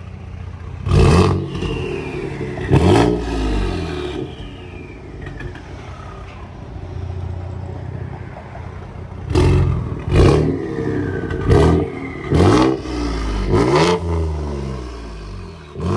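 Ford F-150's 2.7 EcoBoost twin-turbo V6, running through catless downpipes with the muffler and resonator deleted, revved in short throttle blips: two about a second apart early on, then about five quick ones from around nine seconds. It idles in between. After the early blips a turbo whistle falls away in pitch as the turbos spool down.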